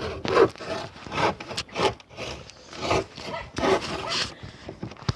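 Rough scraping strokes on wood, coming irregularly, a dozen or so over a few seconds, with a longer run of strokes about three and a half seconds in.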